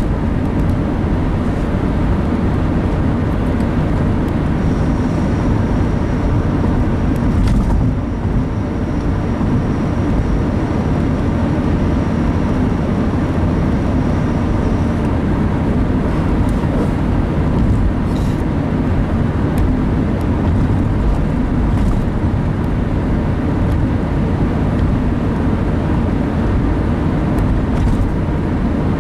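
Steady road and engine noise heard from inside a moving car's cabin, with a faint high steady tone for about ten seconds in the first half.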